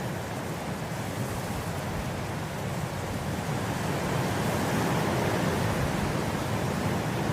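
Wind blowing through grass, a steady rushing noise that swells slightly louder about halfway through.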